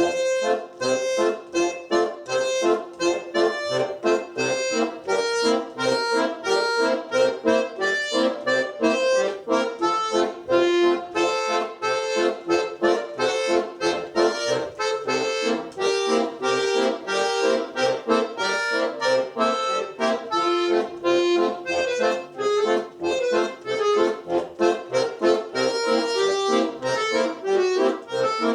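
Solo accordion playing a lively Russian folk tune: quick melody notes over a regular bass-and-chord accompaniment, starting suddenly at the outset.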